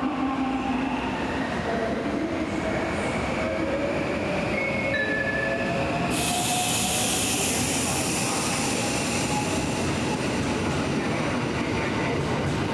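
A train moving through a station, with a steady rumble and thin squealing tones from the wheels. A loud high hiss comes in suddenly about six seconds in and dies away near the end.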